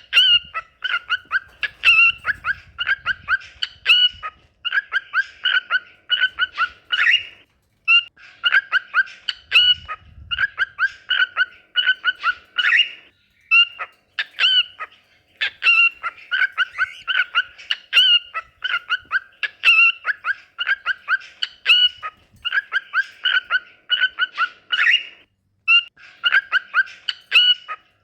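Cockatiel whistling its song: quick runs of short whistled notes, repeated phrase after phrase with brief pauses between.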